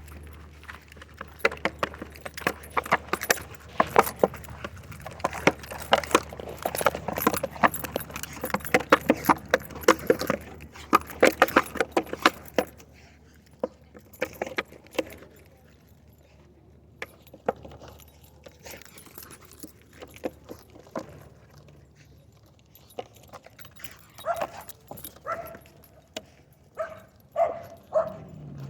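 Metallic jingling and rattling, dense and rapid for about the first thirteen seconds and then sparser. Near the end a dog gives several short barks.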